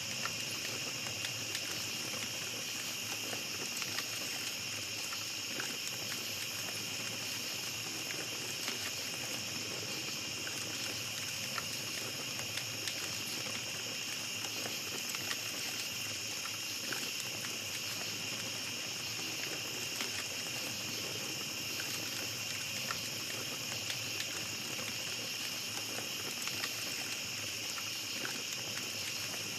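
A steady chorus of night insects such as crickets, with a small campfire crackling in scattered small pops throughout.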